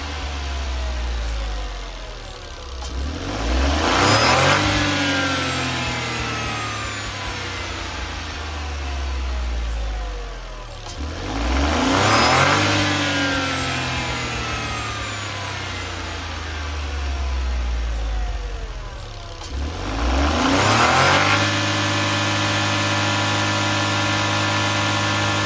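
Smart ForFour Brabus H4B 0.9-litre turbocharged three-cylinder petrol engine on a running check, idling and revved three times, each rev rising and falling back to idle. About 21 seconds in it is raised again and held at a steady higher speed to the end.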